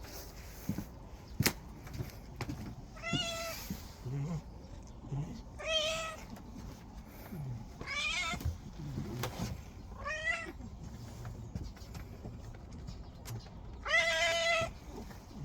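Domestic cat meowing five times, a couple of seconds apart; the last meow is the longest and loudest. A single sharp click sounds about a second and a half in.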